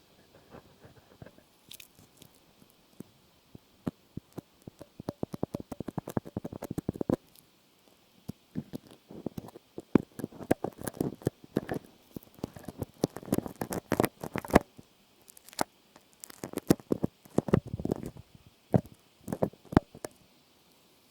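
Close-miked ASMR trigger sounds: quick clusters of small clicks and crackles, sparse at first, then coming in dense bursts with short pauses between.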